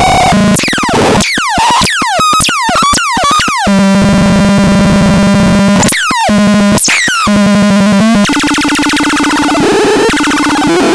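Electronic synthesized sound effects: a run of rapid falling pitch sweeps, then a steady buzzing tone, another short burst of falling sweeps, and near the end a different, higher buzzing tone.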